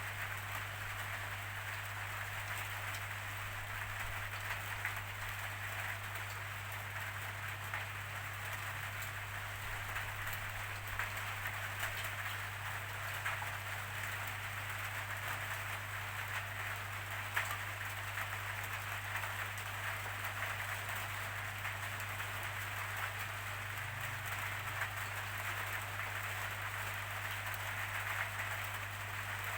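Steady rainfall, an even hiss of drops with scattered small pattering ticks, over a constant low hum.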